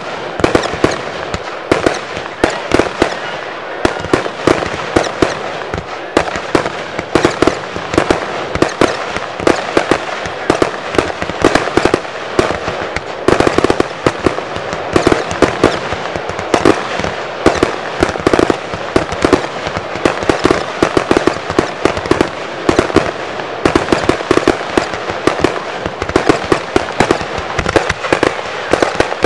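1.3G display fireworks going off in a dense, unbroken volley: many sharp bangs and crackling reports every second.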